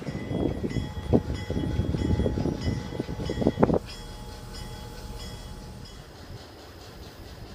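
Train rolling past with its wheels clacking and knocking over the track, loud for about four seconds, then the noise drops suddenly to a low steady rumble.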